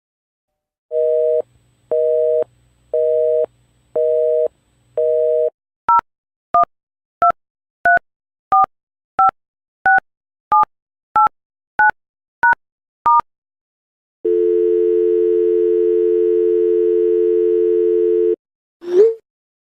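Telephone line tones in sequence. First a busy signal: five half-second two-note tones about once a second. Then a number dialed on a touch-tone keypad, twelve quick beeps each with its own pitch pair. Then a steady dial tone held for about four seconds, followed near the end by a short swooping beep.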